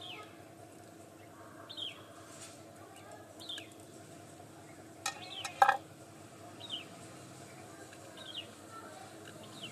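A bird chirping, a short falling call repeated about every second and a half, with two sharp clicks a little past the middle and a faint steady hum underneath.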